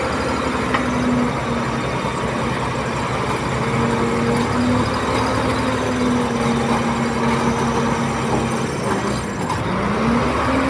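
Diesel engine of heavy earthmoving machinery running steadily. Its pitch dips and then climbs again near the end.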